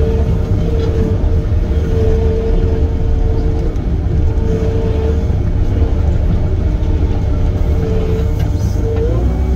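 Heavy equipment running: a loud, steady diesel rumble with a whining tone that comes and goes, shifting up in pitch near the end. It is a racket the new operator cannot place.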